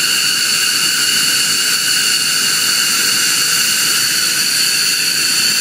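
F-15 fighter jet's engines running with a loud, steady, high-pitched whine over a rushing roar, like a fork caught in a garbage disposal.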